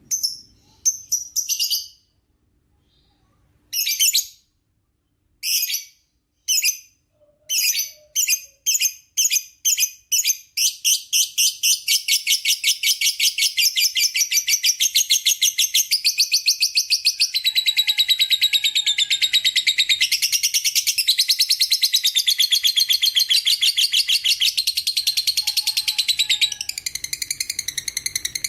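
Lovebird chattering: a few separate sharp, high chirps with short pauses, then from about ten seconds in an unbroken fast run of shrill chirps, several a second. This is the long 'ngekek' song that lovebird keepers prize.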